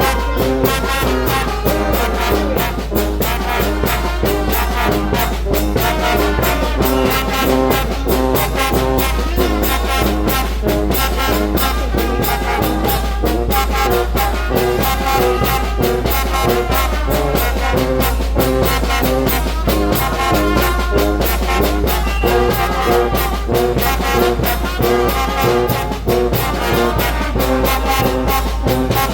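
Brass band playing, with trombones and trumpets over a steady, fast beat.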